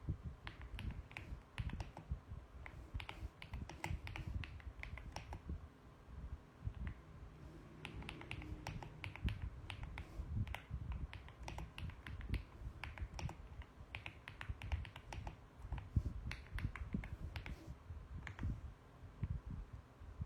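Mechanical keyboard being typed on: quick, irregular runs of key clicks with brief pauses between them.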